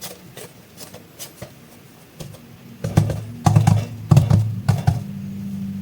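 Crisp clicks and crinkles of plastic clay packaging being handled. About three seconds in, a steady low hum sets in and runs under several louder thumps and crinkles.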